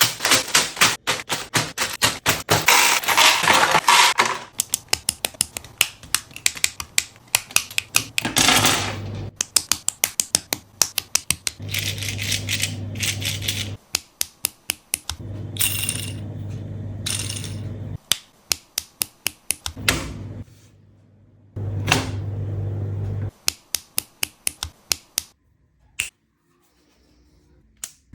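Plastic building-block pieces clicking and rattling as they are handled and snapped together, in rapid runs of sharp clicks. Stretches of a low steady hum start and stop abruptly between the clicks.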